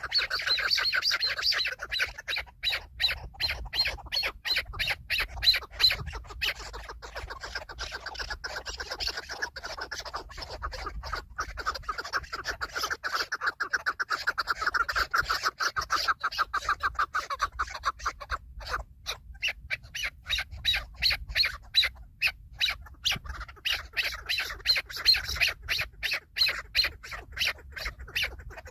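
Chukar partridge calling: a long run of rapid repeated clucking notes, about five a second.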